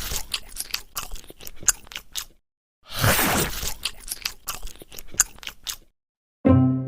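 Cockatiel eating soft food: two runs of crunching and quick beak clicks, each opening with a louder burst, with a short break between them.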